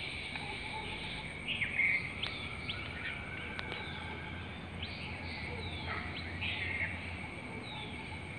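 Several birds calling: short chirps and quick downward-sliding whistles, over a steady high-pitched whine.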